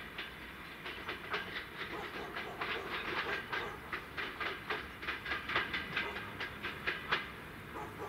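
Train passing, its wheels clattering over the rail joints in quick, uneven runs of sharp clicks that stop about seven seconds in.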